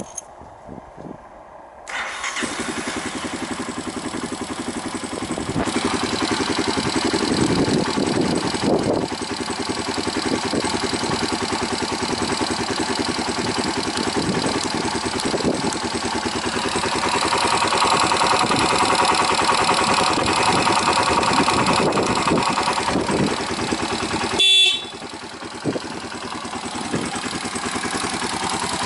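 Honda CB223S's 223 cc air-cooled single-cylinder engine, breathing through an aftermarket Leo Vince muffler, starts about two seconds in and runs steadily. Its running gets louder for a stretch in the middle, and near the end a brief sharp sound comes before it settles to a quieter idle.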